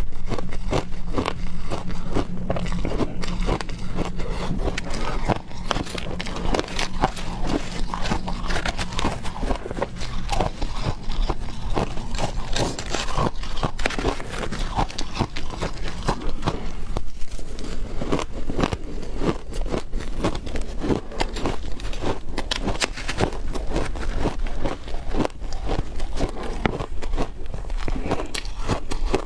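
Close-miked biting and crunching of frozen matcha ice: dense, irregular crackles and crunches that go on without a break.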